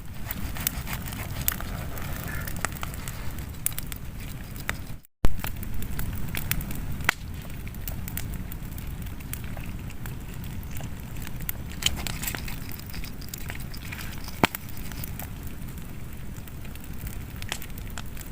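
Wood fire crackling, with scattered sharp pops over a low steady rumble. The sound cuts out for a moment about five seconds in.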